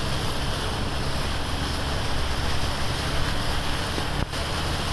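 Floodwater rushing with a steady, heavy roar. There is a brief dropout about four seconds in.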